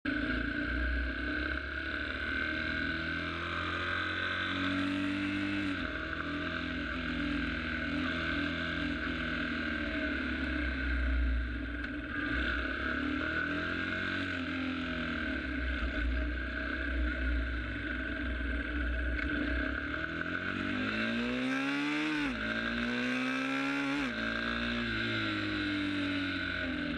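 Sport motorcycle engine running under way, its pitch rising and falling with the throttle, with two quick climbs each cut off by a sharp drop near the end, as on upshifts. Wind rushes steadily over the microphone.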